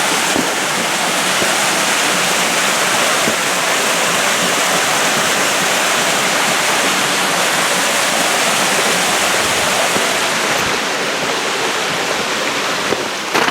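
Rushing water of a flowing canyon creek: a loud, steady hiss with no letup. A couple of sharp knocks come near the end.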